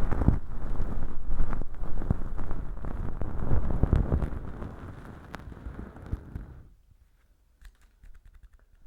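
Bonten feather earpick brushing and scratching inside a velcro-lined mock ear canal packed with dry, flaky fake earwax: a dense crackly rustle. It fades out about two-thirds of the way through, leaving a couple of seconds of near silence with a few faint ticks.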